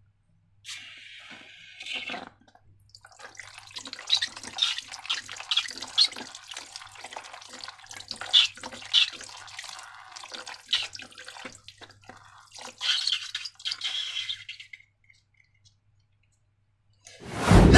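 Slime being squished and squeezed, making many short, irregular wet, sticky clicks and smacks. A sudden loud noise comes near the end.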